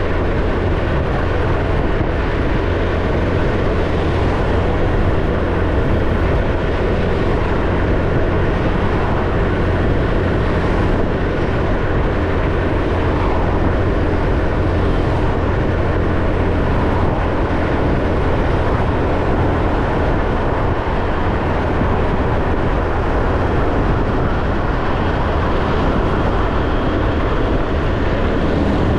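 Ordinary motorbike running at a steady cruise, its engine and road noise heard from the rider's position as a loud, even rumble.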